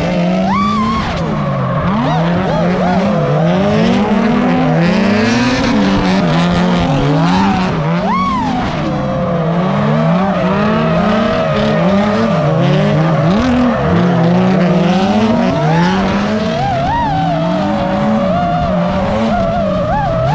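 Two drift cars in a tandem run: engines revving up and down in quick repeated swings under throttle, with tires squealing throughout.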